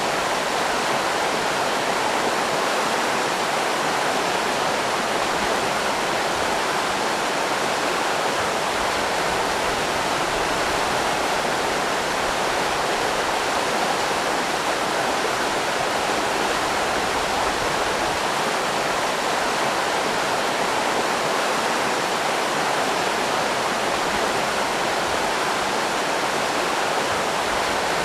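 River rapids rushing: a steady, even flow of water noise with no breaks or separate sounds.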